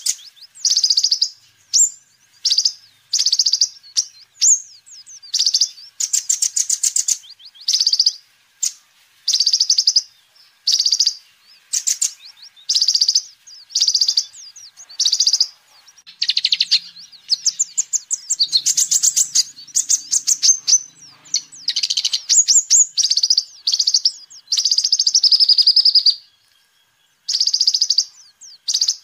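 Sunbird ('kolibri ninja') singing: short, high, rapid chirping trills repeated in quick succession, with a longer unbroken phrase a little before the end.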